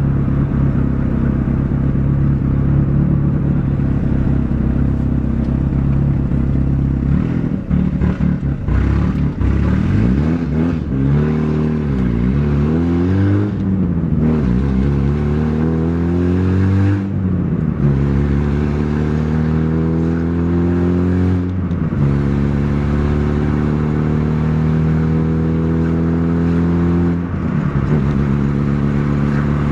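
Honda Prelude engine driving the car on pavement. It holds a steady note at first, then the pitch rises and falls several times, then climbs with sudden drops in pitch three times as the gears are changed.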